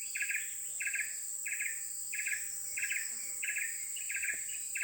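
Insects chirping in the night chorus: short buzzy chirps repeating evenly, about three every two seconds, over a steady high-pitched insect drone.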